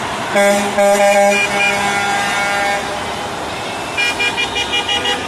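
Truck horns honking: two loud low blasts about half a second in, a fainter held horn note after them, then a rapid string of short, higher toots near the end, over the hum of passing traffic.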